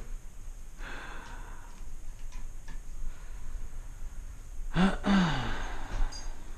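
A man sighing: a fainter breath about a second in, then one loud voiced sigh with falling pitch about five seconds in.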